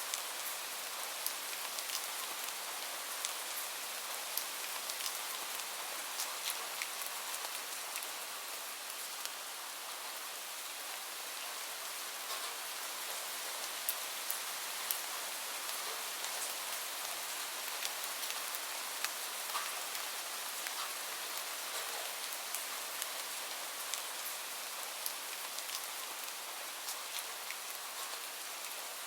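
Steady rainfall, an even hiss of rain with many scattered sharper drop ticks on a hard surface.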